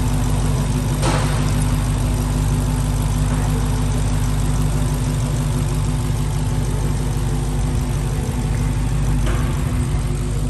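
Supercharged 6.2-litre Hemi V8 of a 2022 Dodge Challenger Hellcat Redeye idling steadily, which the owner guesses has a misfire or supercharger trouble. A short click sounds about a second in and again near the end.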